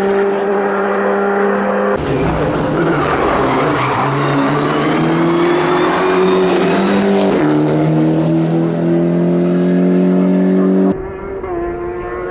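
Hillclimb race car engine at full throttle, its pitch climbing through a gear and dropping sharply at an upshift about seven seconds in. The sound falls suddenly in level about eleven seconds in.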